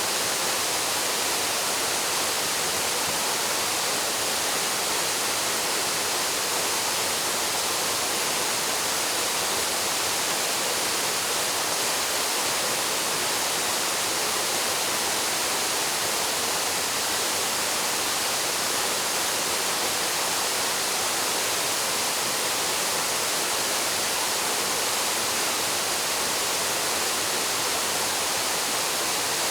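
Waterfall pouring into its plunge pool: a steady, unbroken rush of falling water, heavy in the hiss and thin in the low end.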